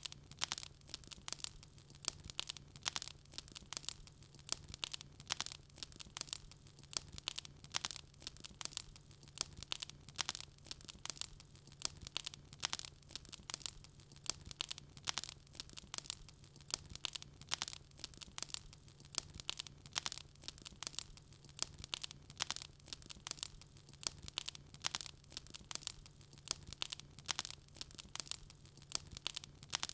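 Wood burning in a fireplace, crackling steadily with a dense run of sharp snaps and pops, several a second, over a faint steady low hum.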